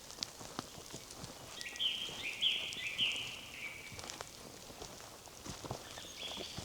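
Footsteps on a forest path, with a songbird singing a short phrase of three falling notes about two seconds in, and a fainter call near the end.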